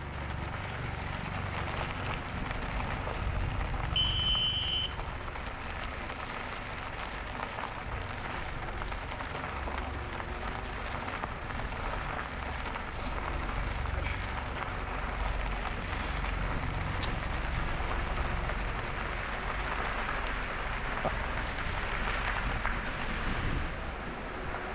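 Wind buffeting the microphone and tyre noise from an e-bike riding along the trail, a steady rushing noise with low rumble. A brief high ringing tone sounds once about four seconds in.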